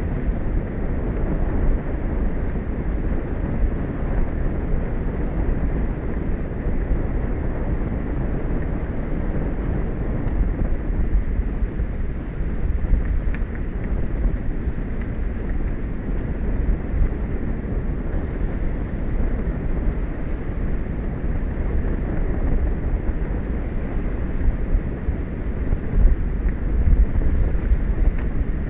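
Wind buffeting an exposed outdoor microphone: a steady low rumble with no distinct events.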